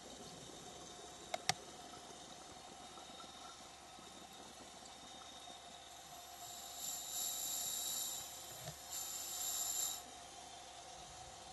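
Scuba diver's regulator underwater: a high-pitched hiss of breathing gas in two stretches around the middle, after two sharp clicks about a second and a half in.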